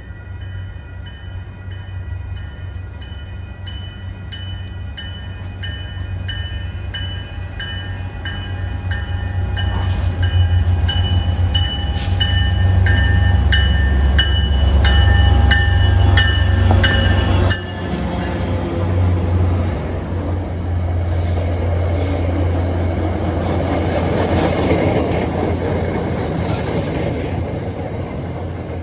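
MBTA diesel commuter train arriving at a station. A bell rings steadily at about one and a half strokes a second over a deep engine rumble that grows louder, and the bell cuts off suddenly about 17 seconds in. The train then rolls on with wheel and car noise and a few short hisses.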